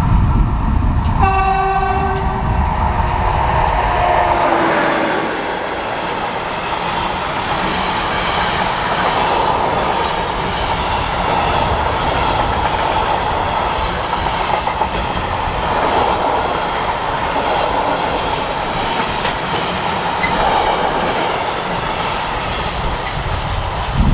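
A passing train sounds its horn once for about a second, then its pitch slides down a few seconds in as it goes by. After that comes a long, steady rush of the train passing on the mainline, with wheels clattering on the rails.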